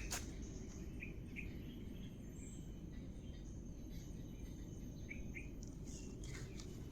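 Faint tropical forest ambience: a steady high-pitched insect drone with a few short bird chirps, the first two about a second in and two more about five seconds in.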